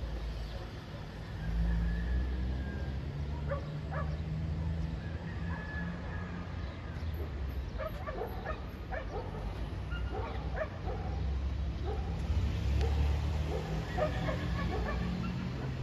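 Dogs barking in short, repeated barks, mostly through the middle of the stretch and again near the end, over a steady low rumble.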